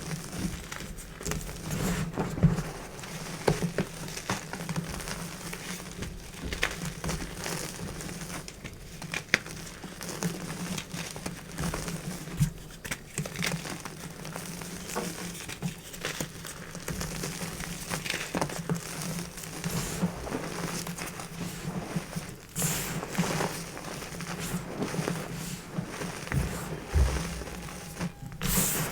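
Crunchy chalk crunching and crumbling close up, with many irregular sharp crackles, over a low steady hum.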